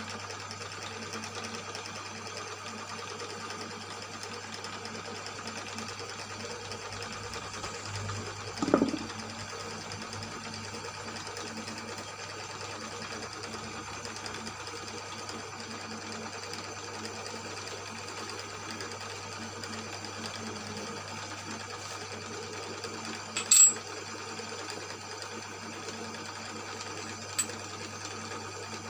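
Cylinder boring machine running steadily with a hum and several steady tones as its cutter bores a Yamaha Mio M3 cylinder block. A few short sharp knocks come about 9 seconds in, near 24 seconds (the loudest) and near 27 seconds.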